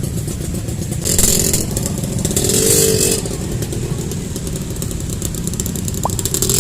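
Motorcycle engines running in busy street traffic, a steady rumble. There are two brief bursts of hissing noise, about a second in and again between two and three seconds.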